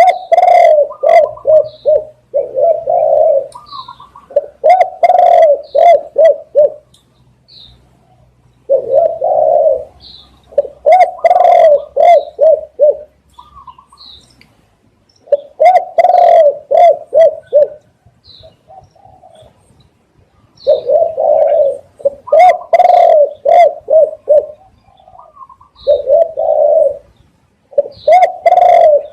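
Spotted dove cooing: loud phrases repeated every few seconds, each a longer coo followed by a string of quick, shorter notes. Faint high chirps of small birds sound between the phrases.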